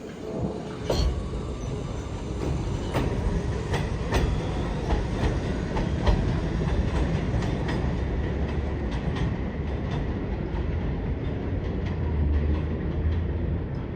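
New York City subway train running through a station, its wheels clicking unevenly over rail joints over a steady low rumble that swells briefly near the end.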